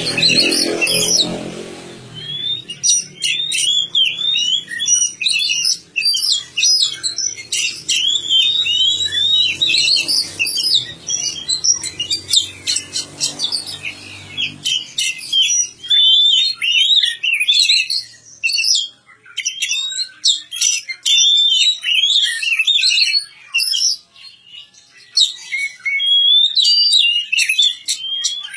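Oriental magpie-robin singing a rapid, varied song of chirps and whistles, with brief pauses about two-thirds of the way in. A lower, noisier sound fades out in the first couple of seconds.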